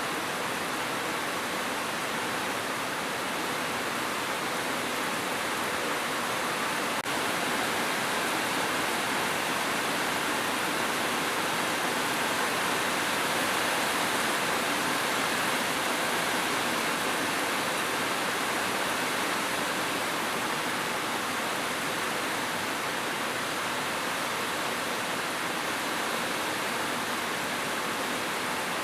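Steady, heavy rainfall: a dense, even hiss of raindrops with no breaks or changes.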